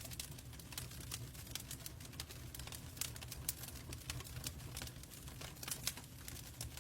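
Log fire crackling in a fireplace: irregular sharp pops and snaps over a low steady rumble of the burning.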